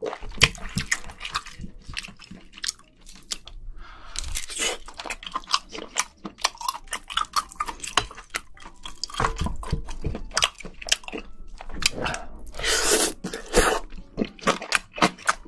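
Close-miked chewing of spicy sauced scallops: wet mouth clicks and smacks, over and over. Two longer noisy rushes come about four seconds in and again near the end.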